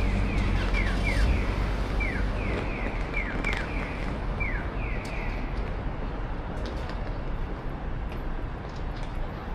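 Japanese pedestrian crossing signal chirping "piyo-piyo": short falling chirps repeated in pairs, stopping about five seconds in, over a steady low rumble of wind and road traffic.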